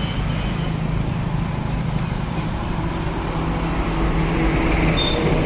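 Steady low hum of motor-vehicle engines and traffic, getting a little louder near the end.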